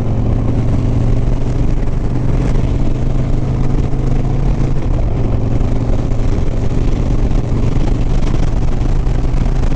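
Harley-Davidson Softail Sport Glide's V-twin engine running at a steady highway cruise, one even low engine note, under a steady rush of wind noise.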